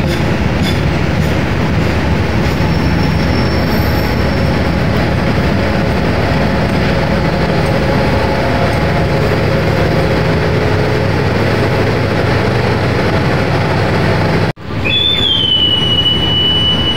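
Indonesian economy-class passenger coaches rolling past close by, a steady loud rumble and rush of wheels on rail. After a sudden break about three-quarters through, a second train rolls past with a high, steady wheel squeal held for a couple of seconds.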